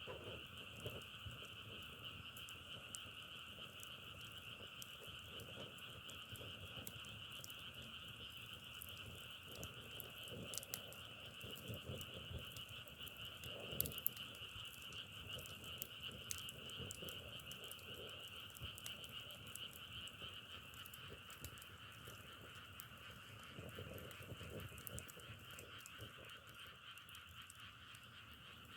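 A dense chorus of frogs calling steadily, with scattered crackles and pops from a wood fire, the sharpest about halfway through.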